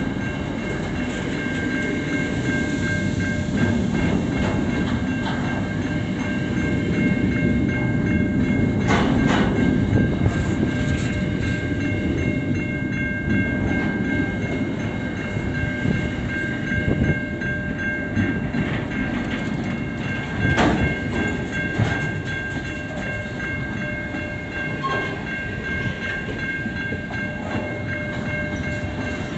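Double-stacked container wagons of a long freight train rolling past at close range: a steady rumble of steel wheels on rail, with a few sharp knocks and steady high ringing tones over it.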